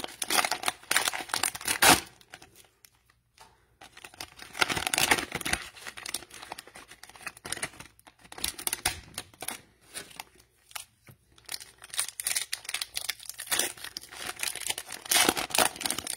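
Cellophane wrapper of a trading-card cello pack crinkling and tearing as it is opened, in several bursts of rustling with short pauses between.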